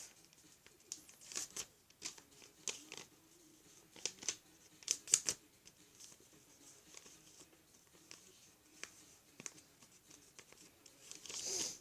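Sheet of paper being folded in half and creased by hand: scattered crinkles and taps, a few louder ones about five seconds in, and a longer rustle near the end as a fold is run down.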